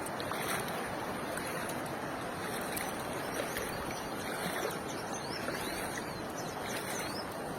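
Floodwater rushing steadily, a continuous even roar of moving water.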